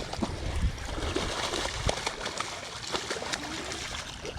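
Water splashing and trickling, dotted with many short light ticks, as a hooked fish is fought at the surface.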